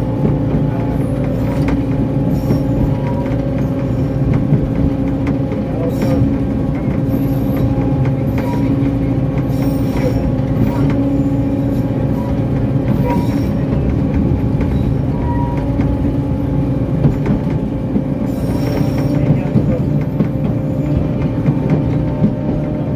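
A 760 mm narrow-gauge train running steadily along the track, heard from the locomotive cab: a constant engine hum over rolling rumble, with a few knocks and rattles now and then.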